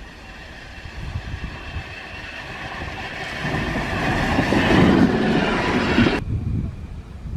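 Train approaching and passing, its running noise growing louder to a peak about five seconds in, then cutting off suddenly a little after six seconds.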